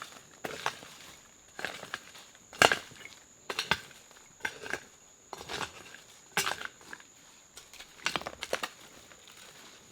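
Wood being chopped with a blade: sharp strikes about once a second, some in quick pairs, the loudest about two and a half seconds in.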